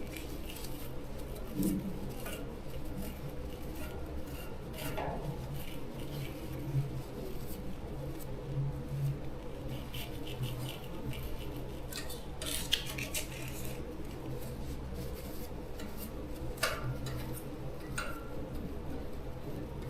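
A few light metallic clinks and taps as small metal tools and parts are handled, over a steady low hum.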